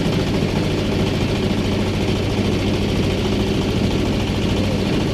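Engine of a small wooden river boat running steadily under way, a constant low drone with a steady pitch.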